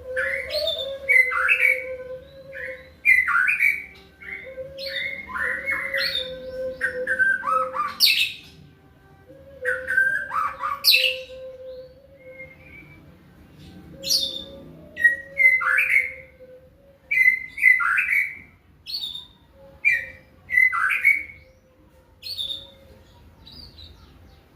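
White-rumped shama (murai batu) singing: a fast, varied string of sharp chirps and whistled phrases packed with mimicked fill-ins, with a brief lull about halfway through.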